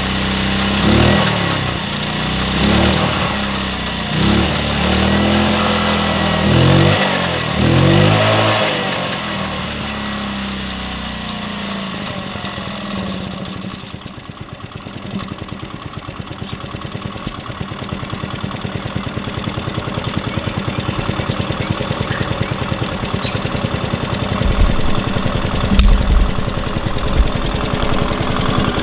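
1966 Honda P50 moped's small four-stroke single-cylinder engine, warmed up, revved up and down about five times over the first nine seconds, then settling back to a steady low idle with an even putter.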